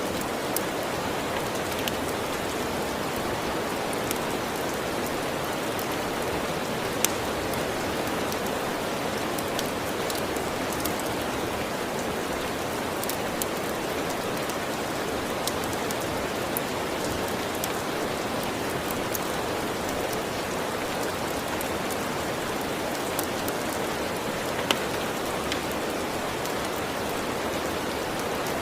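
Steady rain, with a sharp crackle from a wood fire every few seconds.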